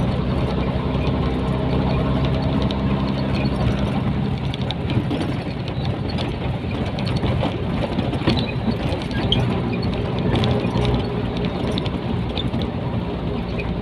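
Nissan Diesel container truck's diesel engine running steadily under way, heard from inside the cab, with scattered light rattles and clicks.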